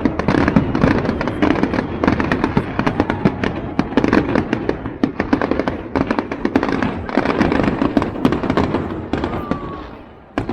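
Fireworks going off in a dense, continuous barrage of bangs and crackles, easing off briefly near the end before another sharp bang.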